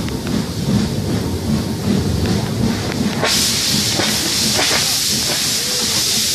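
Steam train running with a low, rhythmic rumble. About three seconds in, a loud, steady hiss of escaping steam starts suddenly and carries on.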